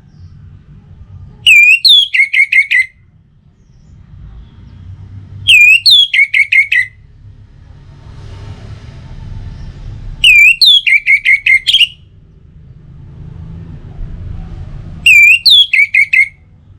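Orange-headed thrush (anis merah) giving the same short song phrase four times, about every four and a half seconds: a rising whistle followed by a quick run of clear notes. A low rumble runs between the phrases.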